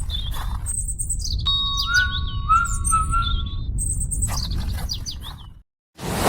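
Birds chirping, with many short quick calls, over a low steady rumble. Everything cuts out about a second before the end.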